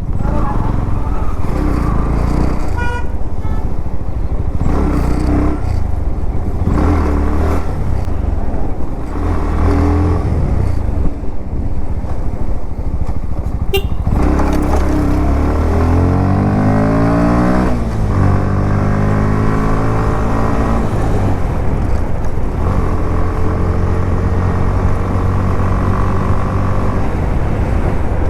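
Motorcycle engine heard from the rider's seat. It runs at low revs, then accelerates with rising pitch about halfway through, drops back at a gear change, and pulls on steadily. Brief high beeps sound near the start.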